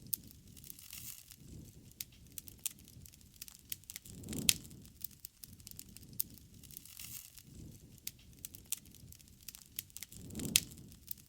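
Wood campfire crackling, with irregular sharp pops throughout. Louder pops come about four and a half seconds in and again near the end, each with a brief low whoosh.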